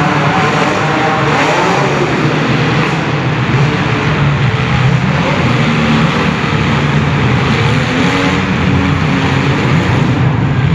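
Several compact cars' engines running and revving together at once, a loud, steady mass of overlapping engine noise.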